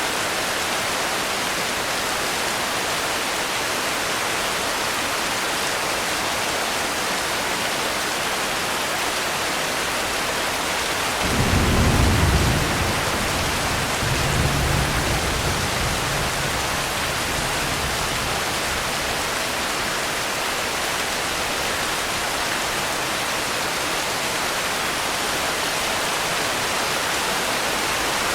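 Steady rain falling, with a low roll of thunder about eleven seconds in that swells twice and dies away a few seconds later.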